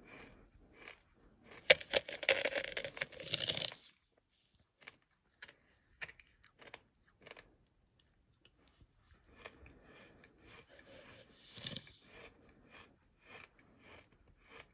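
Mouthful of sand being chewed: short gritty crunches about twice a second, with a louder, dense gritty scraping for about two seconds near the start and a weaker stretch of it later on.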